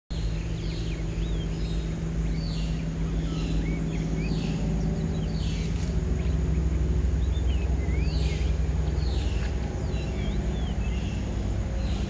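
Small birds chirping and whistling in short, repeated calls, over a steady low hum.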